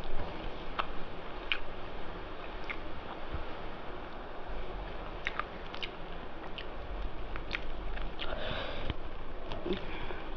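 A person eating close to the microphone: chewing spicy mutton curry and rice, with irregular small wet mouth clicks and sniffing.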